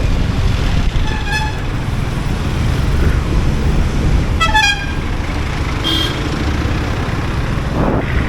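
Road traffic: a steady low rumble of engines and wind, with short vehicle horn toots about a second in and again around four and a half seconds in.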